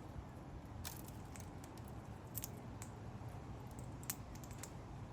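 Faint, irregular sharp clicks and cracks: king parrots cracking seed in their beaks.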